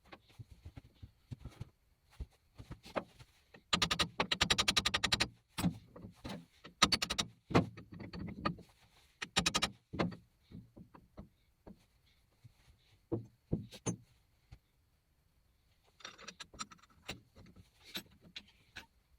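Irregular knocks, clicks and clatter of hard objects being handled, with a quick rattle of rapid, evenly spaced ticks lasting about a second and a half, about four seconds in.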